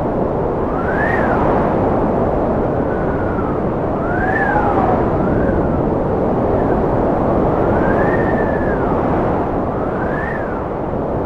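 Strong, gusty wind blowing steadily, with a howling whistle that rises and falls in pitch every second or two.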